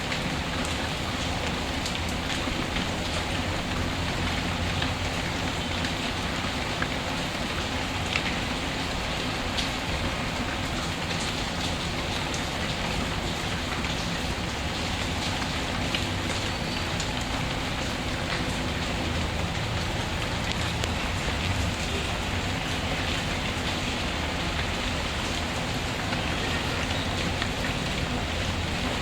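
Steady rain falling, with occasional small pops and crackles from a wood fire in a fireplace.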